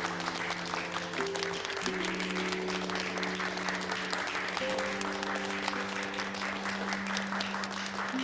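A group of people applauding, with background music of slow, held notes underneath.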